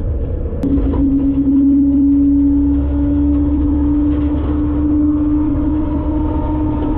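Front-load garbage truck's diesel engine running with a deep rumble. A sharp click about half a second in is followed by a steady hum that holds to the end.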